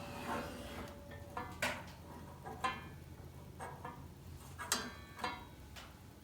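Hand tools clinking against the table saw's metal parts: about five sharp metallic clicks, roughly a second apart, each with a brief ring.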